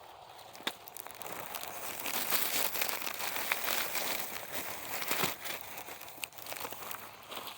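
Crinkling and rustling of a bag being handled while apples are picked, with a few small sharp snaps and knocks; it builds up about two seconds in and eases near the end.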